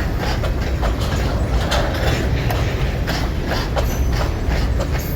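Freight cars of a long, lightly loaded train rolling past at track side: a steady heavy rumble with the clack of wheels over rail joints.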